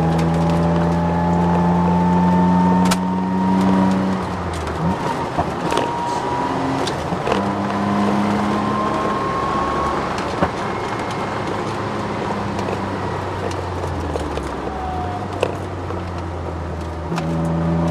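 Ford Sierra XR4x4 twin-turbo heard from inside the cabin, its engine pulling hard on track, then easing off about four seconds in and coming back strong near the end. Over it a thin whine rises slowly with speed, which the owner puts down to the solid diff mount and full poly bushing. Scattered sharp knocks and rattles come through as well.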